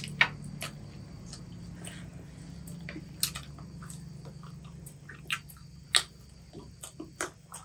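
People chewing and biting into crispy fried chicken lollipops, with scattered sharp clicks and crunches, the loudest about three and six seconds in, over a steady low hum.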